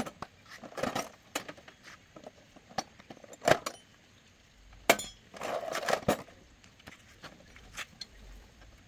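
Scattered light clinks and knocks of small hard objects being handled, with a single sharp click about five seconds in.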